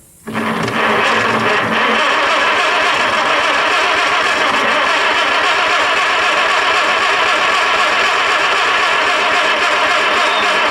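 Farmall Super A tractor's four-cylinder engine being turned over by its electric starter, cranking steadily with an even rhythm for about ten seconds without firing. It gets no spark; the ignition coil's wire turned out not to be plugged in.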